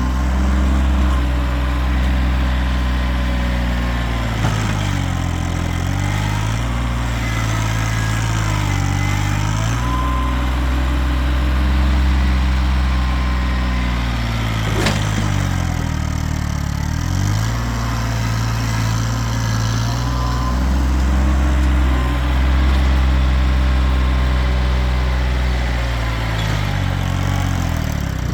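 Kioti tractor's diesel engine running steadily while excavating, its pitch sagging and recovering several times as the engine takes load. A single sharp knock comes about halfway through.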